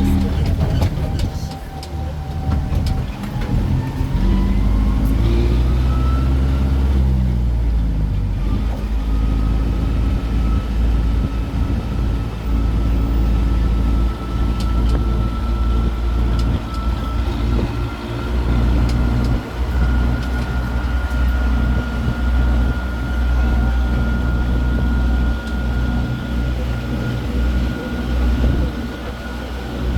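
Tourist road train in motion: a low engine rumble, with a drivetrain whine that climbs in pitch over the first several seconds, breaks off briefly, then holds nearly steady.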